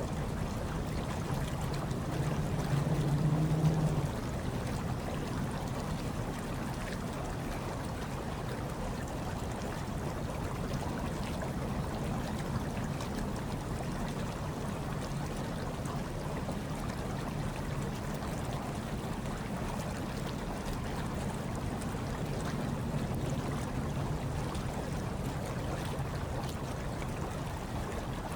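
Hot tub water churning and bubbling steadily. A low rumble grows louder a few seconds in and stops abruptly.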